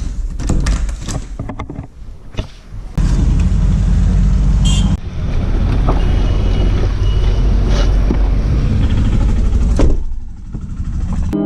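Road vehicle running: a loud, steady low rumble starting about three seconds in, after a few seconds of scattered clicks and knocks.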